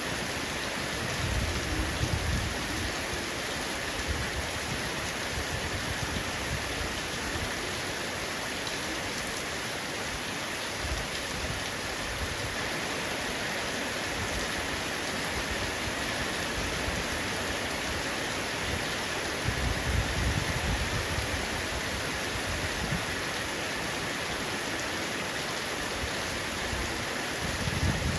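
Heavy rain falling steadily on a roof, a dense even patter of raindrops. Three brief low rumbles come through it: about a second in, around twenty seconds in, and near the end.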